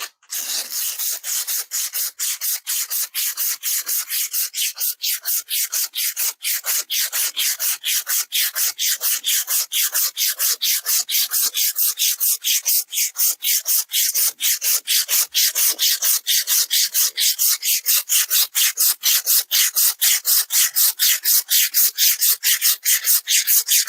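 Emery cloth rubbed briskly back and forth on rusty steel in a steady rhythm of about four strokes a second: hand-sanding rust off a tractor loader's bucket pin or bracket.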